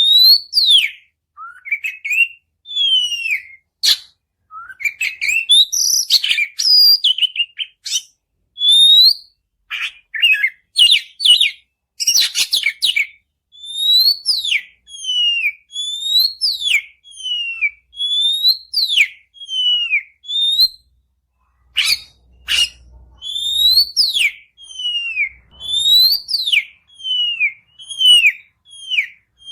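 Oriental magpie-robin (kacer) singing: a varied run of whistles and sharp clicky notes, then, from about halfway, a steady string of loud clear whistles, each sliding up and then down, roughly one a second.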